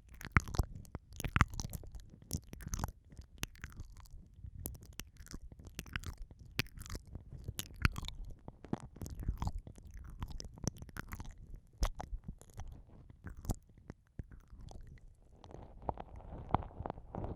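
Wet mouth sounds close to the microphone: lip smacks and tongue clicks of ASMR 'ear eating', several a second. From about 15 s in the clicks thin out under a soft, steady rustle.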